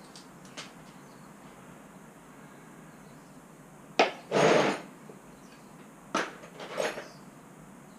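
Tools and metal engine parts being handled during reassembly: a sharp knock about four seconds in followed by a short scraping rattle, then another knock and a brief clatter near the end.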